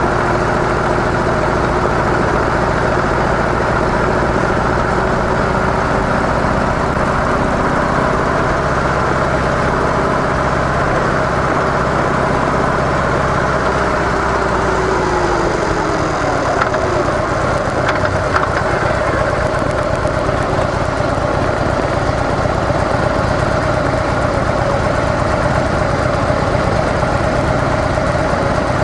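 Harley-Davidson CVO Softail Deluxe's air-cooled Twin Cam 110 V-twin running through its stock mufflers with a steady note. About halfway through, the engine pitch slides down and settles lower, as when easing off.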